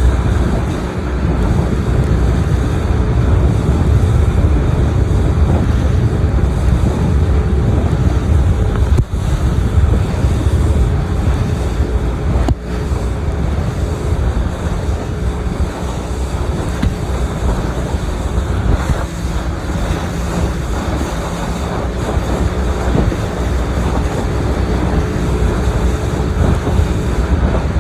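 Boat motor running steadily under way, with a faint steady hum over heavy wind buffeting on the microphone.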